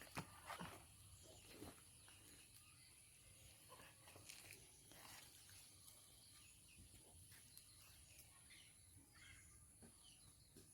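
Near silence: faint rural ambience with a few soft taps in the first two seconds, scattered faint bird chirps toward the end, and a steady faint high-pitched hiss.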